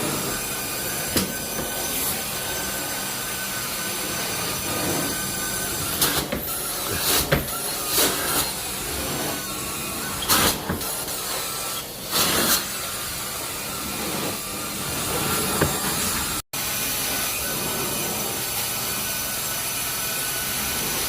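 Carpet-cleaning vacuum motor running steadily with a constant whine, with bursts of louder crackling surges between about six and thirteen seconds in.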